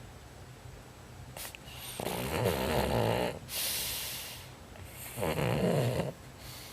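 Dog snoring: two snores about three seconds apart, each lasting about a second, with a hissing breath between them.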